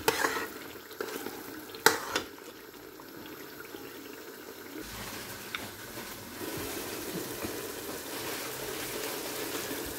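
Bone-in chicken frying in wet curry masala in a steel pot, a steady sizzle, with a metal spoon knocking against the pot a couple of times in the first two seconds as it is stirred.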